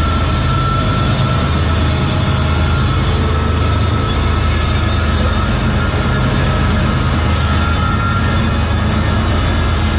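BNSF coal train rolling past: a steady rumble of cars and wheels on the rails, with high, steady wheel squeal over it.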